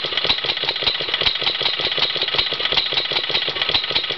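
Cub Cadet riding mower's Kawasaki overhead-valve engine, freshly cleaned of carbon, running steadily with a rapid, even firing beat. The throttle is pushed all the way forward to stall it, because the mower has no kill switch.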